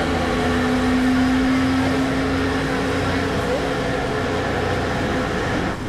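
Steady drone of a passenger ferry's engines heard on board: a low hum with a held tone over it.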